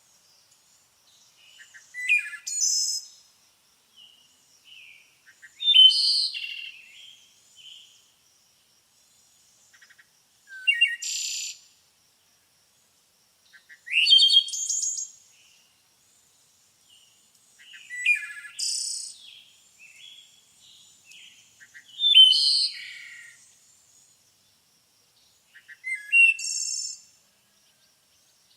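A songbird singing short, high-pitched song phrases of about a second each, repeated roughly every four seconds with pauses between.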